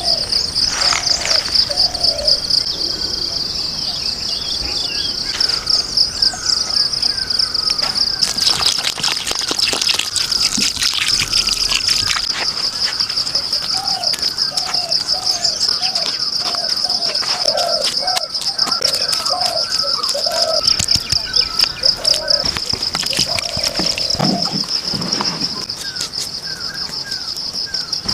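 A steady, high, fast-pulsing insect trill runs throughout, with a bird calling in runs of short repeated notes, and scattered sharp clicks partway through.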